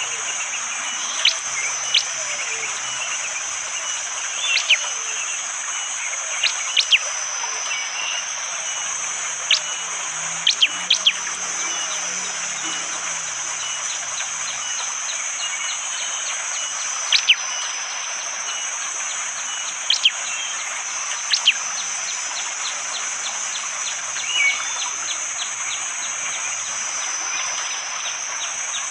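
Prenjak jali giving short, sharp, whip-like call notes, scattered a second or a few seconds apart, over a steady high-pitched drone and forest background. A fast run of ticking notes comes in during the last several seconds.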